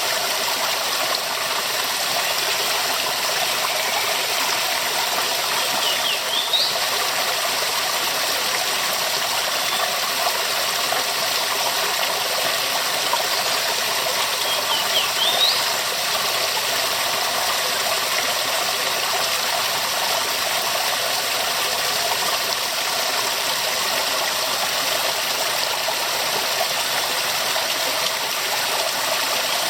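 Waterfall rushing steadily. Two brief high rising chirps sound over it, about nine seconds apart.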